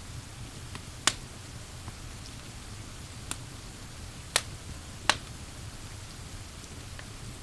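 Wood fire crackling, with a few sharp pops (the loudest about a second in and twice between four and five seconds in), over a steady hiss of pouring rain.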